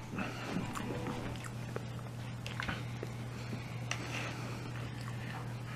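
Faint chewing and mouth sounds of a man eating a meatball sub, with small scattered clicks, over a steady low hum.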